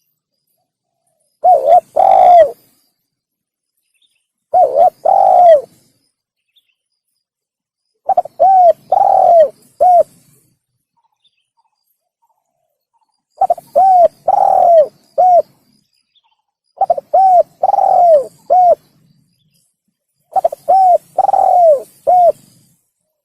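Spotted dove (tekukur) cooing: six phrases of three to four arched coo notes each, with a second or two of silence between phrases.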